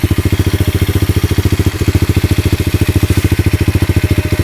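Pit bike's single-cylinder four-stroke engine idling with a fast, even exhaust pulse through a muffler with its packing removed. It has been running badly, which the owner blames on the carburetor.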